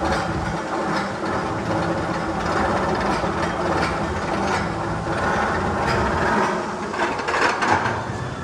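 Steady rumble and clatter of a train running on rails, with scattered clicks and knocks.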